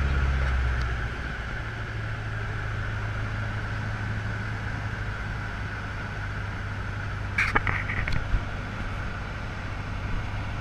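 Cessna 150L's four-cylinder Continental O-200 engine running steadily, with wind noise, as heard in the cockpit. It gets quieter about a second in, and a short burst of clicks and crackle comes about seven and a half seconds in.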